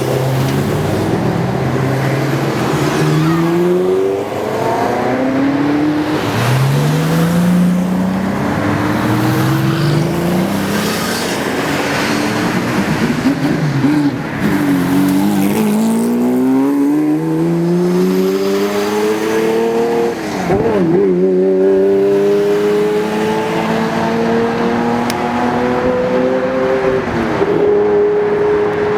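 Engines of several high-performance sports cars accelerating hard. Each one's pitch climbs and then drops at every upshift, with one car's run overlapping the next.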